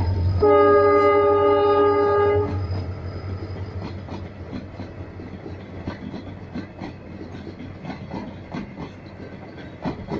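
Horn of an EMD WDP4B diesel locomotive sounding one steady blast of about two seconds as the locomotive moves away. Then a train of passenger coaches rolls past with a run of wheel clicks over the rail joints, fading slowly.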